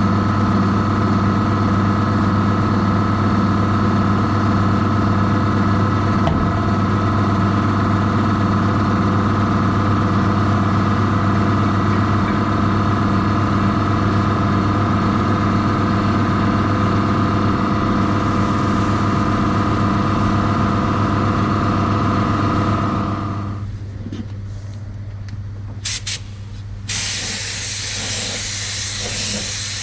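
A motor runs steadily and then cuts out about 23 seconds in. Near the end a spray gun starts hissing in short and then longer bursts, laying on clear coat.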